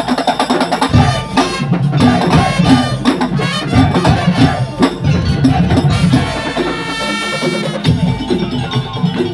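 Madurese tong-tong (daul) music: a loud percussion ensemble of wooden slit drums and drums playing a dense, driving rhythm. A held melodic line rises above the percussion from about six to eight seconds in.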